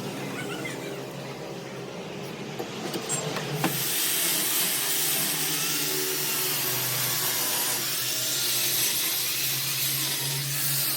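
Steady workshop machine noise with a hiss, growing louder and brighter about four seconds in.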